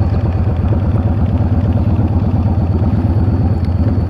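Yamaha V-Star 650's air-cooled V-twin engine running steadily at low revs, a dense, even pulsing.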